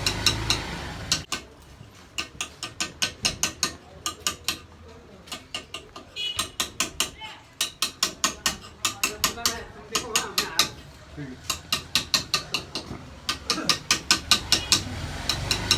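A steady run of sharp taps, about three a second, stopping and starting again twice.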